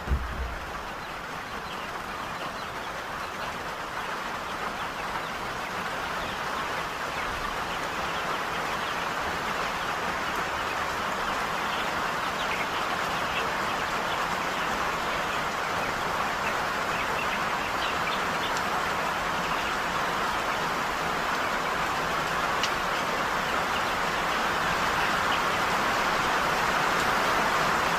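Heavy rain falling steadily, a dense hiss that slowly grows louder, with a few faint drip-like ticks.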